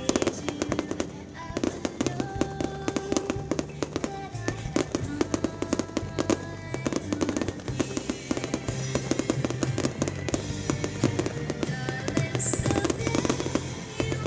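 Fireworks going off in a rapid, continuous run of sharp bangs and crackles, with a song playing alongside.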